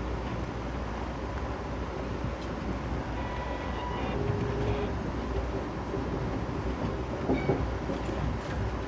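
Steady low rumble of an Amtrak passenger train car rolling along the rails, heard from inside the car, with faint high tones about three to four seconds in and a brief louder knock about seven seconds in.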